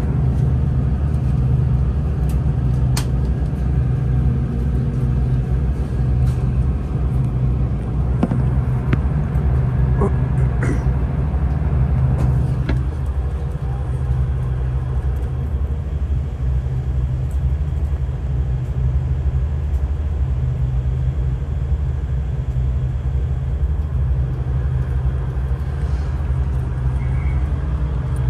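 A train running: a steady low rumble with a few sharp clicks and knocks in the first half.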